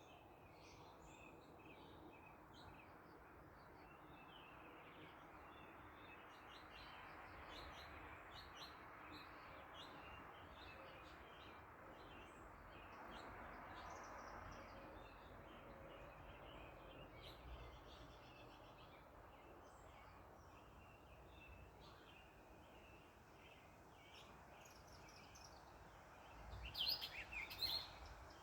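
Faint outdoor ambience of small birds chirping on and off over a soft, low rushing hiss that swells and fades through the middle. A louder flurry of bird chirps comes near the end.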